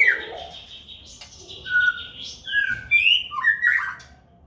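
White-rumped shama calling: short clear whistled notes and quick rising and falling glides, in a burst at the start and a longer phrase from about a second and a half in, stopping just before the end.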